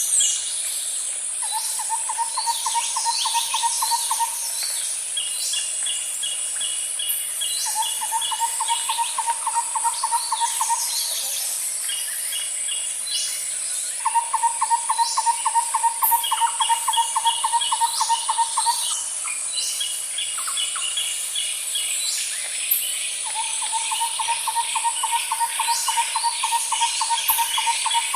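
Nature ambience: birds calling and chirping over a steady high insect drone, with a rapid low trill that comes in four runs of a few seconds each.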